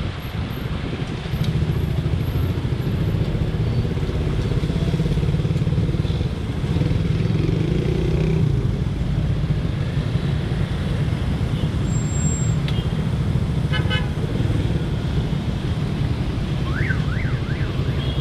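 Motorcycle riding in road traffic, its engine running steadily, with a short horn toot about three-quarters of the way through.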